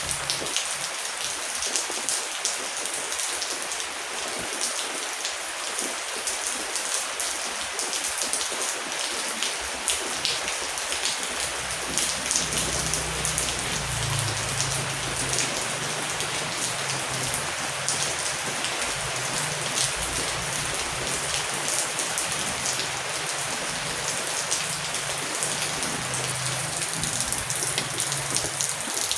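Heavy rain falling steadily on a hard surface, a dense even hiss studded with many sharp individual drop hits.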